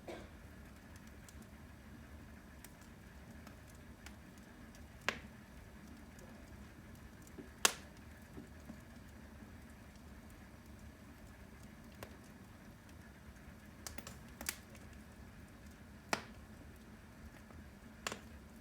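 Wood fire burning in a fireplace: a steady low background with scattered sharp crackles and pops, the loudest about eight seconds in.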